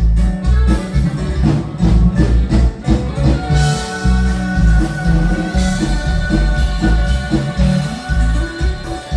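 Norteño band music with a steady bass beat; about three and a half seconds in, a melody instrument starts holding long notes over it.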